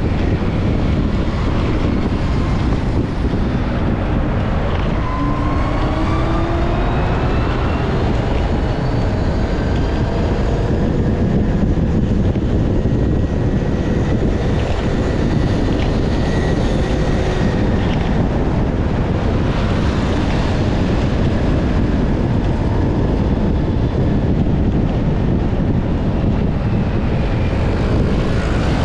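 Wind rushing over the microphone while riding through road traffic, with engine whines rising and falling in pitch now and then.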